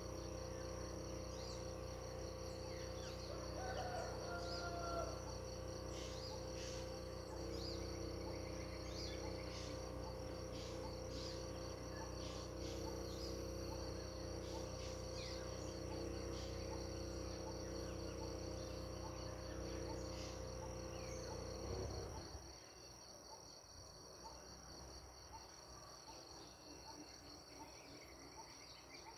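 Crickets trilling steadily, with scattered short bird chirps. A low steady hum runs underneath and cuts off about three-quarters of the way through, after which the ambience is quieter.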